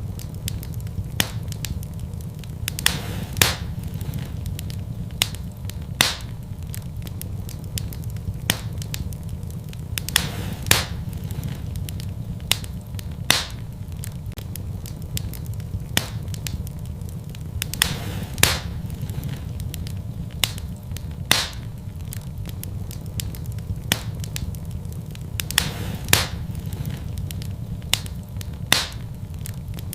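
Fire burning in a fireplace: a steady low rumble of flames with sharp crackles and pops at uneven intervals, a louder pop every two or three seconds.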